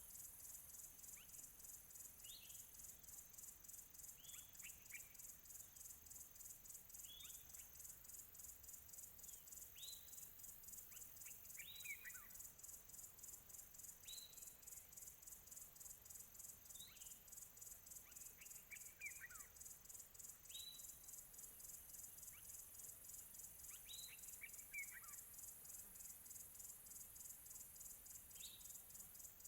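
Faint outdoor ambience: a steady, fast-pulsing high insect trill throughout, with a bird giving short downward-sliding chirps roughly every two seconds, some in quick pairs.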